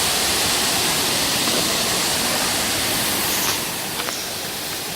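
Waterfall pouring steadily, a dense rushing noise. It drops a little in level about three and a half seconds in, with two faint clicks shortly after.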